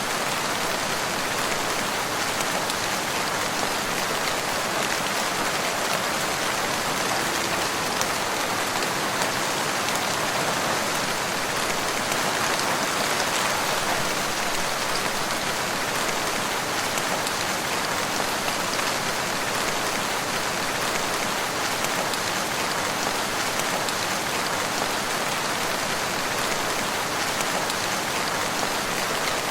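Steady rain falling in a forest, a dense even hiss of drops on leaves and ground.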